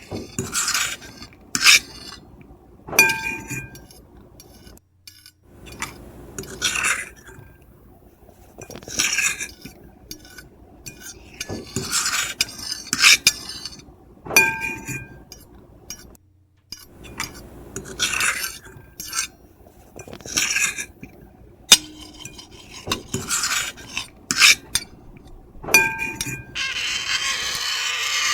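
Metal fork and knife scraping across a plate in repeated short strokes, every second or two, with a few clinks that leave the plate ringing briefly. A steady hiss comes in near the end.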